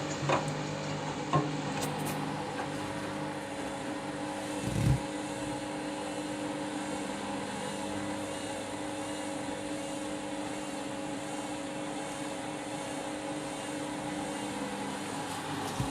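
Candy washing machine running its pre-wash, a steady motor hum with one dull low thump about five seconds in.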